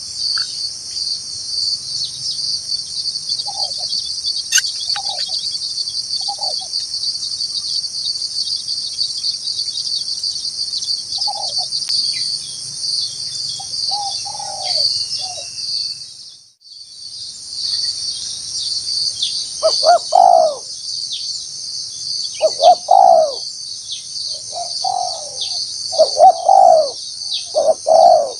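Spotted doves cooing over a steady, high insect chorus. The coos are faint at first. After a short gap in all sound a little past halfway, they come louder and repeated.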